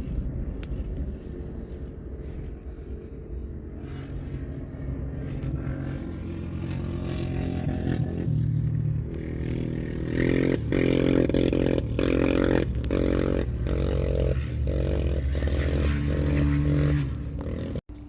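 Motorcycle engine running, getting louder about ten seconds in and then revved in quick repeated bursts.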